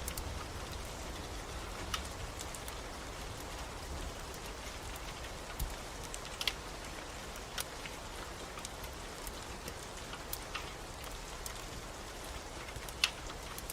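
Steady rain hissing, with a low rumble underneath and scattered sharp crackles and pops from a wood fire in a fireplace, the loudest about six and a half and thirteen seconds in.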